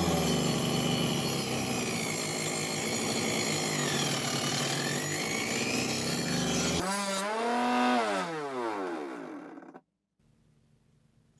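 Homemade mini table saw, two coupled DC 775 motors spinning a 4-inch circular blade, cutting through a board: a steady motor whine over rough sawing noise, the pitch sagging in the middle as the blade is loaded. About seven seconds in the cut ends, the whine rises briefly as the blade runs free, then falls away as the motors are switched off and wind down to a stop near ten seconds.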